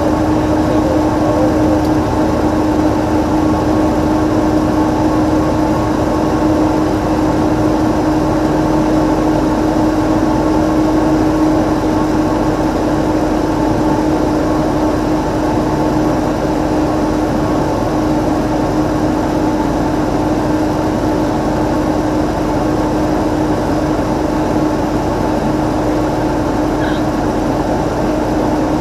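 Cessna 182's piston engine and propeller droning steadily in flight, with a strong constant hum and no change in pitch.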